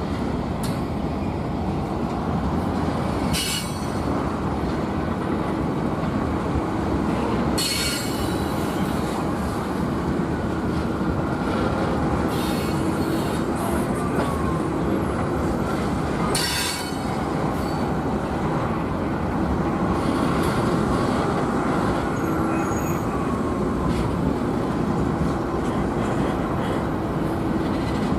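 A train rolling past close by: a steady, loud rumble of wheels on rail, with a brief sharp high-pitched squeal or screech three times, about 3.5, 8 and 17 seconds in.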